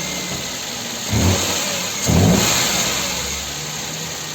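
Car engine running with a newly installed water pump, revved briefly twice, about one and two seconds in.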